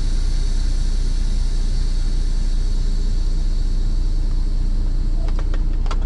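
Truck engine running steadily with a deep, even drone as the truck moves off. A few short clicks come near the end.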